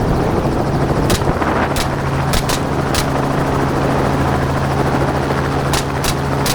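Helicopter engine and rotor running steadily in flight, a constant low drone. Several faint sharp clicks are scattered through it.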